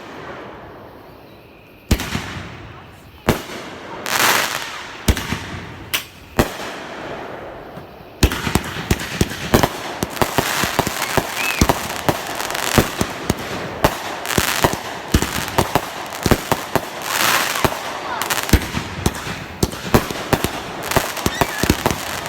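Fireworks going off: single bangs a second or so apart, some trailing a crackle, then about eight seconds in a dense barrage of rapid pops and crackling that keeps going.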